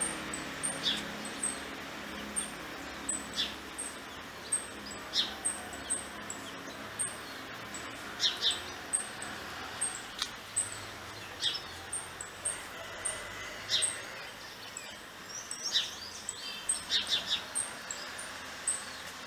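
Wild birds calling: a short, high chirp repeating about twice a second, with sharper, quick chirps scattered among them over steady background hiss.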